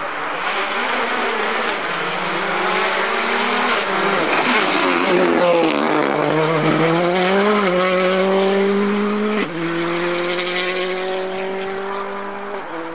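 Rally car's engine driving hard past, loudest about halfway through. The engine note falls and climbs, then jumps suddenly in pitch about three-quarters of the way in at a gear change.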